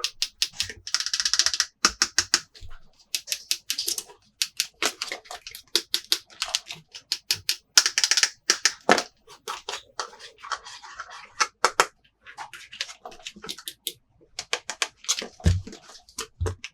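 Plastic toy playset pieces being handled: a rapid, irregular series of clicks and taps, with short bursts of rustling packaging.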